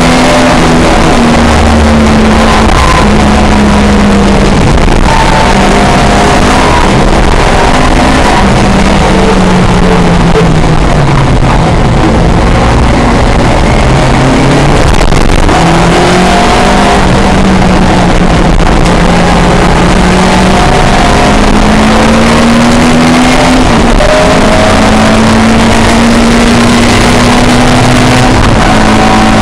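Pre-1966 touring car's racing engine running hard at high revs, its pitch climbing under acceleration and dropping back for gear changes and braking, again and again.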